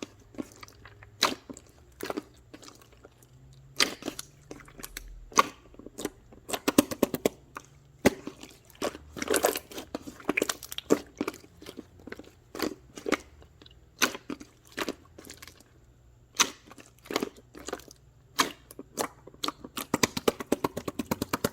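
Irregular crisp crunching and crackling clicks, some single and some in quick clusters.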